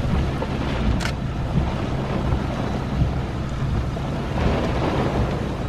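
Strong wind and rain gusting in through an open car window and buffeting the microphone, with one sharp tap about a second in.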